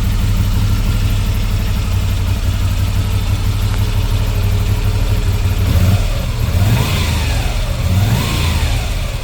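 Moto Guzzi V7 Stone's air-cooled transverse V-twin idling steadily, then revved three times in quick blips over the last few seconds, each rising and falling back to idle.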